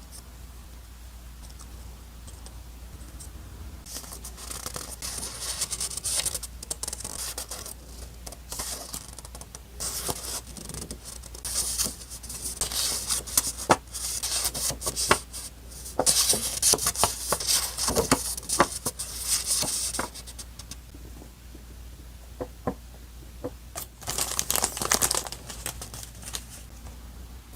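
Paper being torn and handled close up, in several separate stretches of rasping tearing with crinkles and small taps; the longest and loudest runs through the middle.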